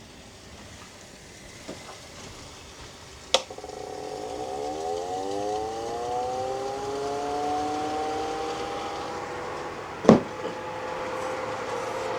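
A whistling tone with several pitches at once rises over several seconds and then holds steady. There is a sharp knock about three seconds in and another near the end.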